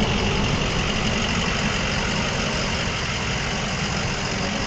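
A 2005 Ford F-350's 6.0-litre Power Stroke V8 turbo-diesel idling steadily.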